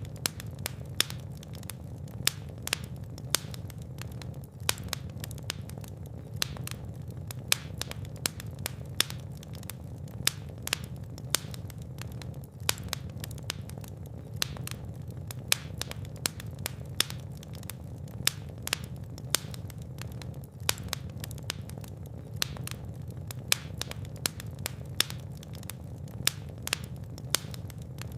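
Fireplace fire crackling: frequent sharp, irregular pops and snaps over a steady low rumble of flames.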